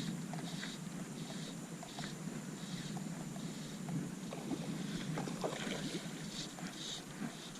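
Water lapping against the hull of a small jon boat, a steady wash with small repeated slaps and light clicks.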